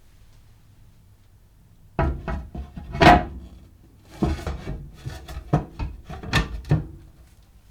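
A run of sharp wooden knocks and clacks, irregular and about a dozen strong, starting about two seconds in and stopping near the end.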